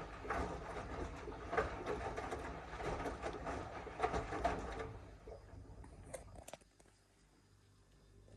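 Miele W1 washing machine drum turning and tumbling the laundry in uneven swells, then stopping about five seconds in, with a couple of clicks before it goes quiet in the pause.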